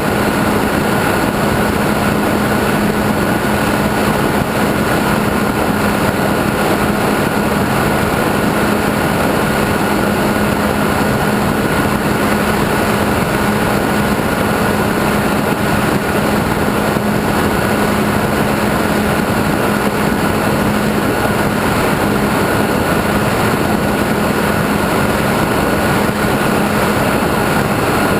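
Model airplane's motor and propeller running at a steady cruise, recorded on board, with wind rush over the airframe. It holds one constant drone with a higher whine above it and never changes.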